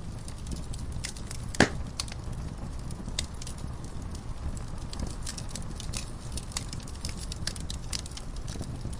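Wood fire crackling in a fireplace: irregular sharp pops and snaps over a steady low rumble of burning logs, with one loud pop about one and a half seconds in.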